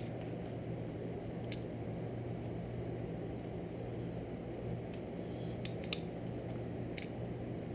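Steady low hum with a few faint, light clicks scattered through it, the clicks from small pull-starter parts being handled.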